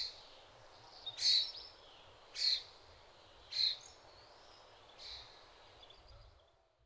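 A bird calling outdoors: five short, high calls about a second apart over faint background noise, the last one weaker. The sound fades out near the end.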